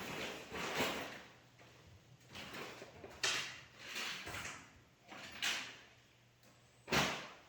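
Someone rummaging through tools and drawers: a series of sliding, scraping noises. The sharpest and loudest starts suddenly about seven seconds in.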